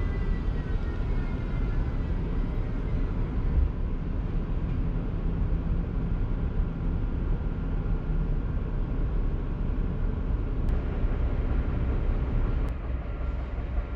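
Siemens Vectron electric locomotive running slowly with its freight train: a steady low rumble, with a faint electric whine falling in pitch and fading over the first couple of seconds. Two sharp clicks come near the end.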